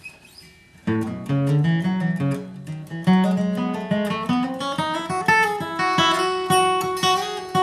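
Acoustic guitar flatpicking a fast bluegrass lead line, quick single notes climbing in pitch and settling on a ringing held note near the end.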